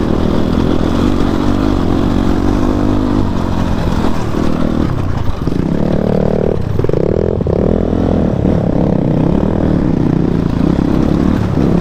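Motorcycle engine running under load on a rough off-road track. Its note falls about four to five seconds in, then climbs again as the bike accelerates.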